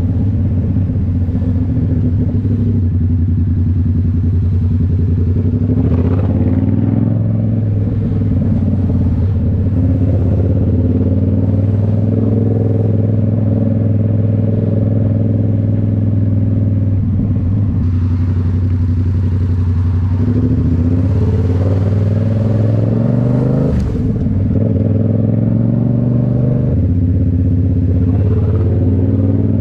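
Yamaha MT-07's 689 cc parallel-twin engine through a Toce full exhaust system, running steadily under way at cruising speed. The engine pitch shifts a few times as the throttle and gears change, with a brief dip about 24 seconds in.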